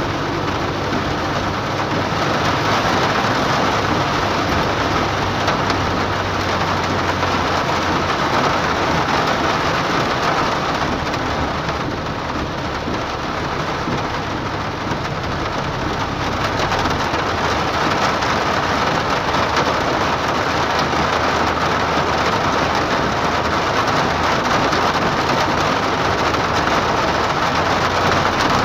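Heavy rain on a car's windshield and roof, heard from inside the moving car: a steady, dense hiss, mixed with the wet road noise of the car's tyres.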